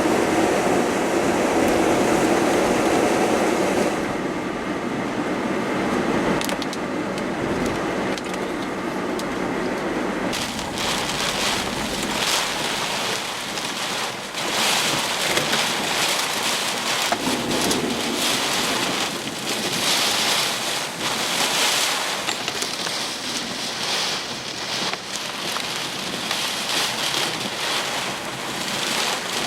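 Thunderstorm wind and rain: a loud, steady rushing noise that swells and falls with the gusts, deeper and heavier in the first four seconds, changing abruptly about four and ten seconds in.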